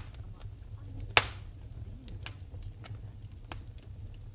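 Wood fire in a fireplace crackling, with sharp pops at irregular intervals, the loudest about a second in, over a low steady rumble.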